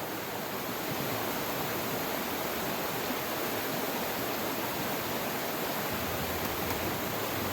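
Steady, even rush of water with no break or change.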